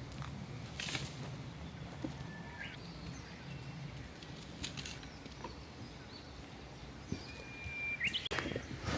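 Wild birds chirping and whistling in the distance over outdoor ambience, with a held whistled note near the end. A few soft clicks sound, and a louder rustling starts just before the end.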